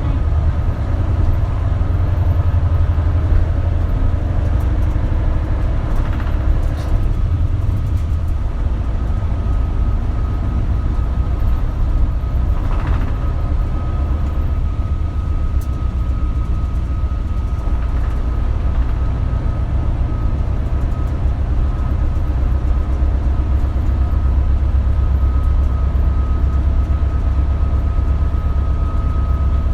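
Isuzu Erga diesel city bus under way, heard from inside the cabin: a steady low engine and road rumble. A thin steady whine comes in about halfway through.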